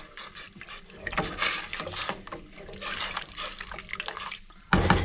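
Spoon stirring a pot of chicken broth with cut carrots and celery, the liquid sloshing in repeated swishes, with a louder knock near the end.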